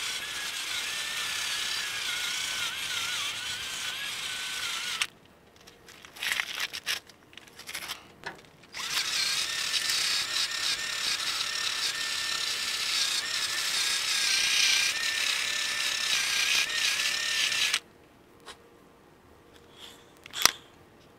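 Handheld electric power tool running in two long stretches, its whine wavering in pitch as the load changes, with short gaps of tool clicks and knocks between and a sharp knock near the end.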